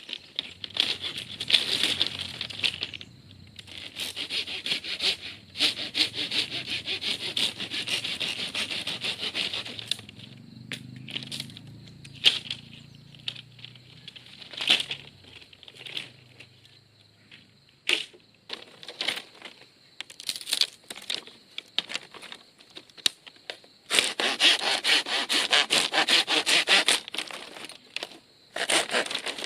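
Bamboo being sawn by hand in several long spells of rapid rasping strokes, with sharp knocks and clatter of bamboo between the spells.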